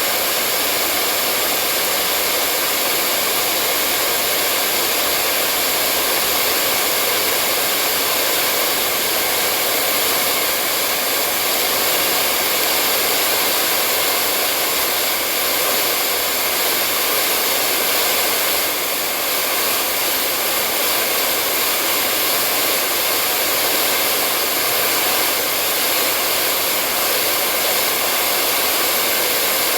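Hair dryer blowing steadily, a continuous hiss of motor and rushing air that holds the same level throughout, played as a soothing noise to lull a baby to sleep.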